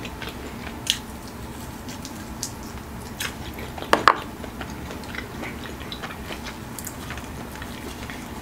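Close-up chewing and small mouth clicks from eating Flamin' Hot Cheetos-crusted fried chicken, with a sharper double click about four seconds in.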